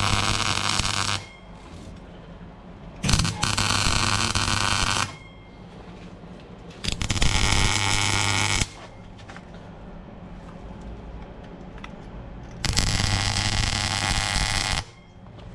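MIG welder laying four short weld runs of about two seconds each, a steady crackling arc with a low hum under it. The arc runs smoothly on a clean earth connection.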